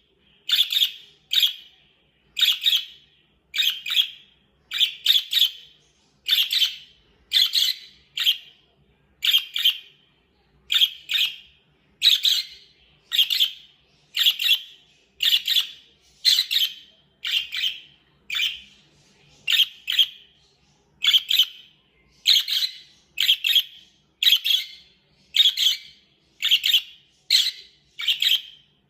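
Budgerigar chirping over and over, a short sharp call about once a second, often doubled.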